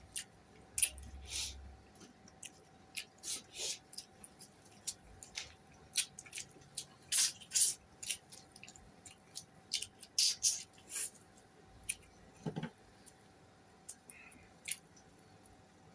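A person eating close to the microphone: irregular wet smacks and clicks of chewing and lips, with a faint steady hum underneath.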